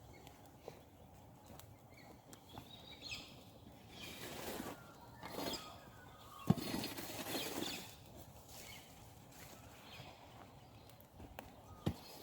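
Campfire of dry wood crackling, with scattered sharp snaps, the loudest about six and a half seconds in, while birds call in short high phrases through the middle.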